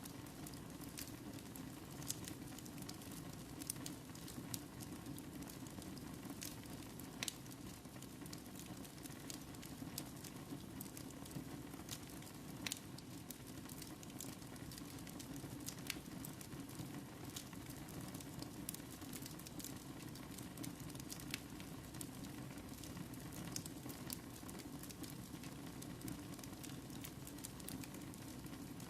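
Wood fire burning in a fireplace: a steady low rustle of flames with irregular sharp crackles and pops from the burning wood.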